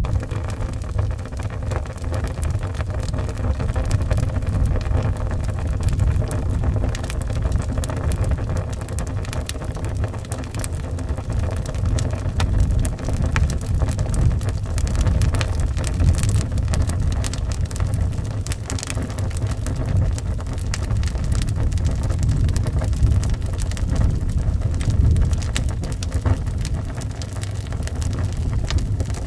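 Wood fire crackling with scattered small pops over a steady low rumble of howling wind, with rain mixed in.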